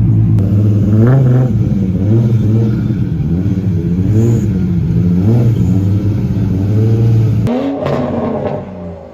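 A performance car engine running, revved in a series of short throttle blips that rise and fall about once a second. The engine note drops away near the end.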